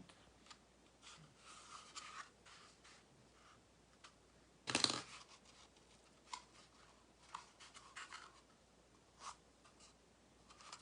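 Cardboard toilet-paper rolls being handled and pressed together while being glued: soft scattered rustles and scrapes, with one louder rough scrape about five seconds in.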